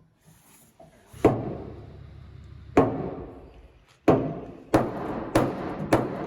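Six loud, sharp knocks in an uneven series, the last few coming faster, each fading over about a second: blows on the pickup box's sheet metal during dent removal.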